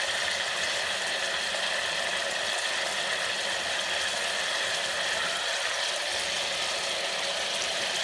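Steady sizzling hiss of onions and chicken frying in oil in an aluminium pressure cooker.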